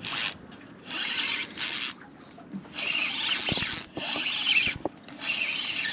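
Fishing reel buzzing in repeated bursts of a second or less while a fish is played on the line.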